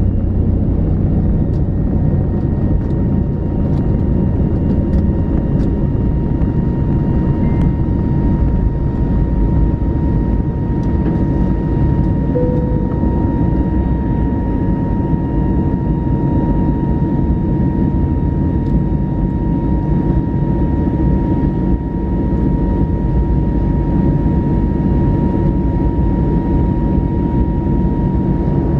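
Inside an Airbus A321neo's cabin, its jet engines run at steady thrust: a loud, even roar with a steady high whine above it. A few faint clicks come in the first few seconds.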